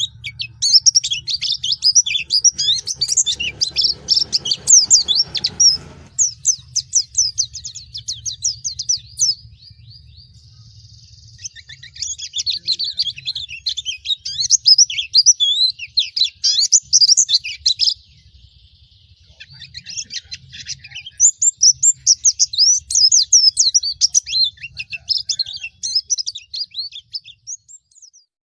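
Pleci (white-eye) singing a fast, jumbled twittering song of high notes in long bursts, with short breaks about a third and two thirds of the way through. A faint steady low hum runs underneath.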